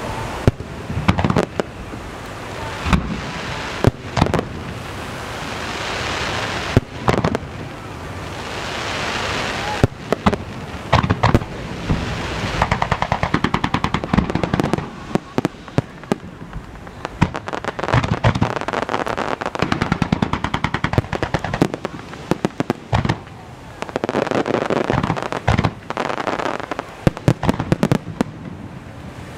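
Aerial firework shells bursting one after another with sharp booms, mixed with long runs of rapid crackling and hiss between the bangs.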